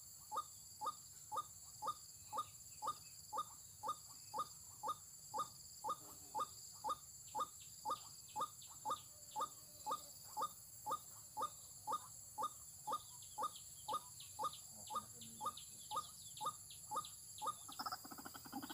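A white-breasted waterhen (ruak-ruak) call used as a trapping lure: a short rising note repeated very evenly, about twice a second, on and on.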